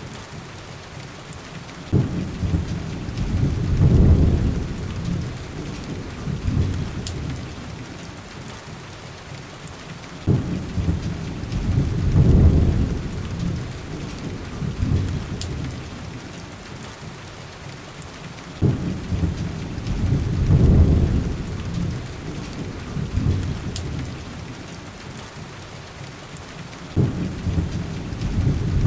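Heavy rain as a steady hiss under low rolling rumbles of thunder. Each rumble begins abruptly, swells and fades, four times about every eight seconds. Faint sharp ticks are scattered throughout.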